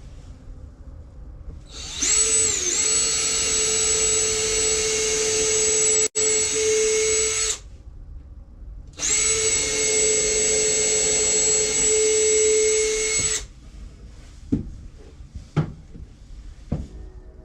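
Electric drill running in two bursts of about five and four seconds, each a steady whine that dips briefly as it spins up. A few sharp knocks follow near the end.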